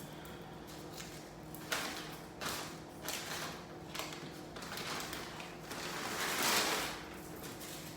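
Handling of takeout food containers and plates: several short knocks and clicks, then a longer rustling swell near the end, over a faint steady hum.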